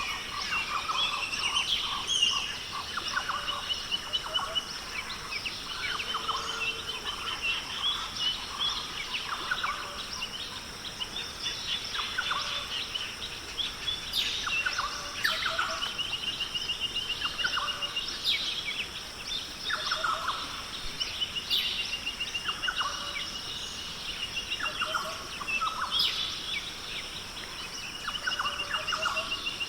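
Rainforest bird chorus: several birds calling at once, with a rapid trill repeated every few seconds and scattered short chirps, over a steady high-pitched drone.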